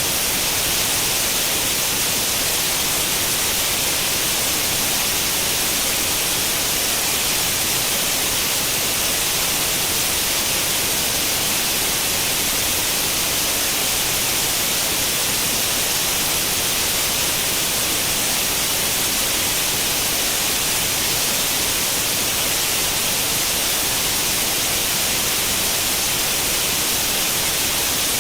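Steady white-noise static like an old tube television tuned to an empty channel: an even hiss, brightest in the high frequencies, that does not change.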